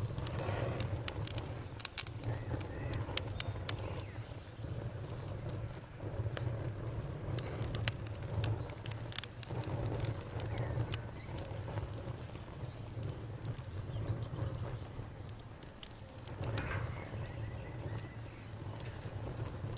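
Wood fire crackling with sharp pops and snaps, denser in the first half, over a steady low rumble of the flames. A cricket chirps steadily in fast pulses throughout.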